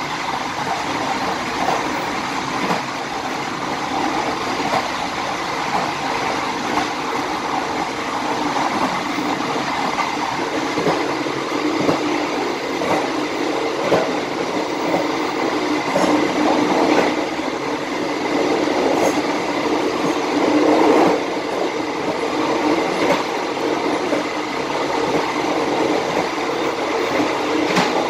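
Passenger train cars running along the track: a steady rumble of steel wheels on the rails, with a few short, sharp clicks.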